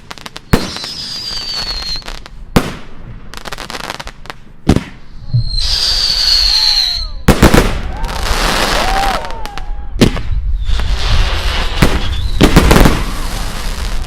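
Fireworks going off: sharp bangs every two seconds or so, two high whistles that fall slightly in pitch, and dense crackling after the bursts in the second half.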